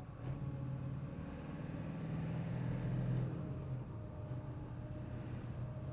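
1999 Ford F-550 dump truck's engine running while driving, its hum growing louder and slightly higher about two seconds in, then easing back near four seconds.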